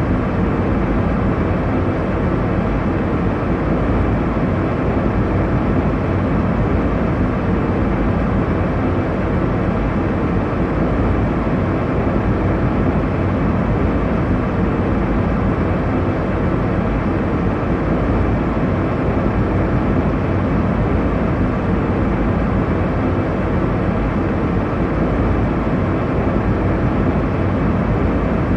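Steady airliner cabin noise in flight: a constant low rumble and hiss of engine and airflow, with no changes or distinct events.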